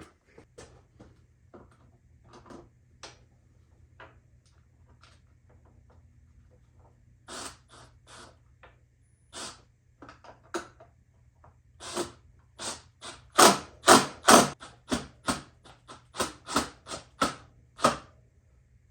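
Irregular clicks and knocks of plastic body panels and hardware being handled and fitted onto an ATV, sparse at first and coming thicker and louder in the last third.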